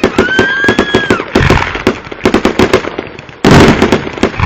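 Fireworks finale: rapid sharp bangs and crackling pops. A whistling tone runs through the first second and then falls away, and a louder, denser blast comes about three and a half seconds in.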